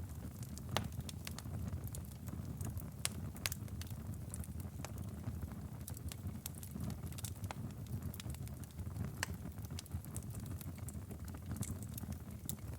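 Wood fire in a fireplace crackling, with a steady low rumble of the flames and irregular sharp pops and snaps of burning firewood, a few louder ones about a second in and three seconds in.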